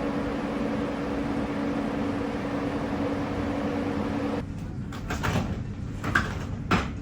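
Steady running noise of a moving vehicle with a low, even hum. About four and a half seconds in it gives way abruptly to a quieter background with a few short knocks.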